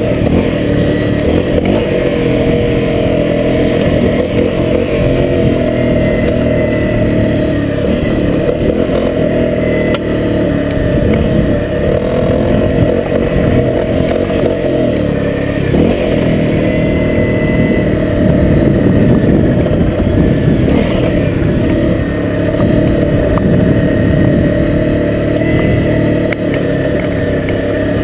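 Honda CRF250L's single-cylinder four-stroke engine running under load on a dirt trail, revving up and down over and over as the rider works the throttle. A few sharp clicks now and then.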